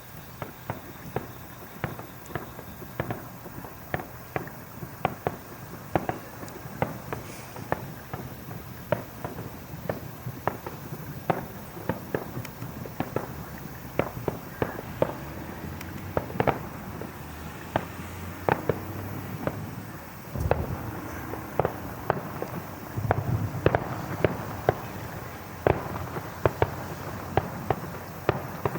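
Fireworks display: an irregular rapid run of sharp crackling bangs, several a second, with deeper booms about twenty seconds in and again a few seconds later.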